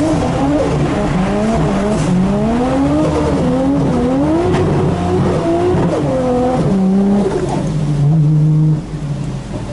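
Holset HY35-turbocharged RB25DET straight-six of an R33 Nissan Skyline drift car heard from inside the cabin, its revs rising and falling over and over as the throttle is worked through a drift. Near the end it holds lower and steadier, then drops off.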